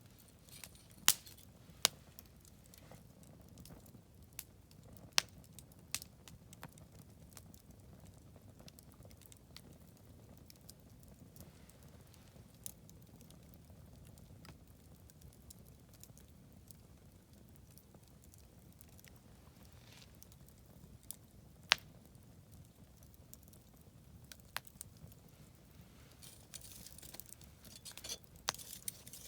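Wood fire burning: a low steady rush with scattered sharp pops and crackles, a few loud ones about a second in and again past twenty seconds. The crackling grows busier near the end.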